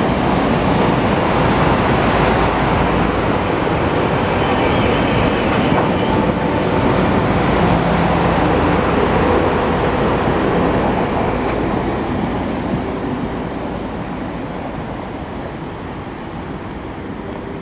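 Five-car GE Silverliner IV electric multiple-unit train departing past the platform: a steady rush of wheels on rail that fades over the last several seconds as the train pulls away.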